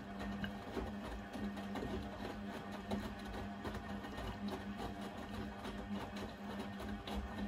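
Blomberg fuzzyDigitronic Granat 3200 washing machine running: a steady hum with irregular small clicks and knocks throughout.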